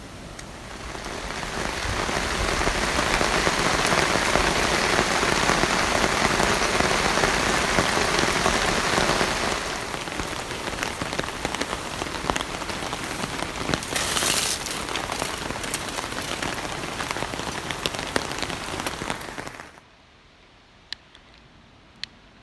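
Heavy downpour of rain, swelling over the first couple of seconds and heaviest for the first half, then easing a little. It stops abruptly near the end, followed by two faint ticks.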